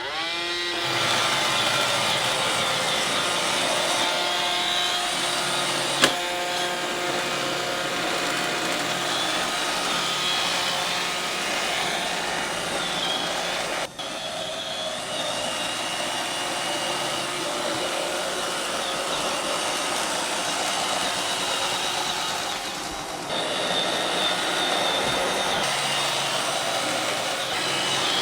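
iRobot Roomba robot vacuum running: its motors spin up with a quick rising whine, then settle into a steady whir. A single sharp click comes about six seconds in.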